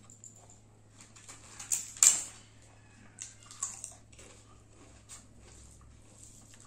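Close-miked eating sounds: someone chewing a mouthful of hand-fed rice, with a few sharp wet smacks, the loudest about two seconds in.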